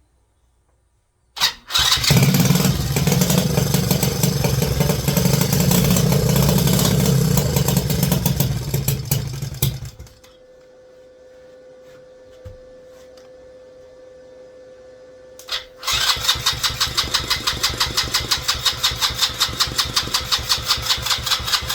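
Small pit bike engine starting on choke about a second and a half in and running loud until it drops to a quieter steady idle about ten seconds in. A few seconds before the end it runs loud again with a rapid, even pulsing.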